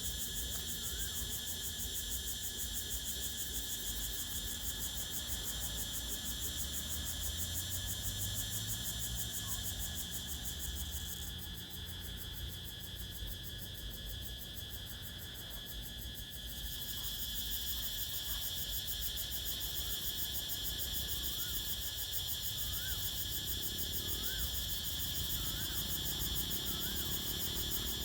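A dense chorus of crickets and other insects trilling steadily, with its highest layer dropping out for a few seconds in the middle. Short rising chirps recur several times near the end, over a low wind rumble.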